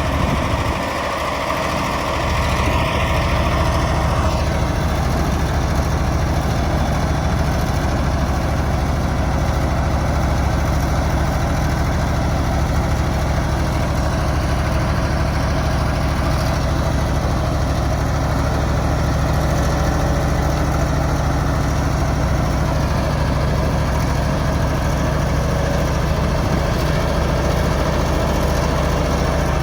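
Heavy diesel dump truck engine running steadily at idle, a deep even drone.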